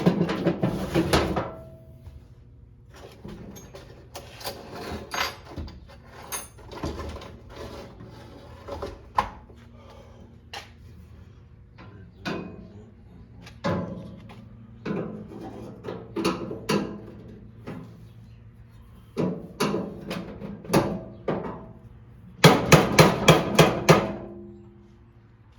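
Irregular knocks and taps from hand-tool work on the lawn tractor, over a low steady hum. Near the end comes a quick run of about eight hammer-like strikes.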